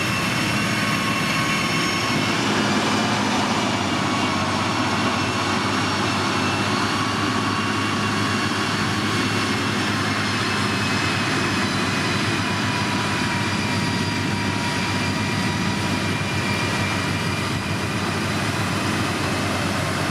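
Heavy road-building machinery's diesel engine running steadily under work, with several high whining tones that sink slowly in pitch.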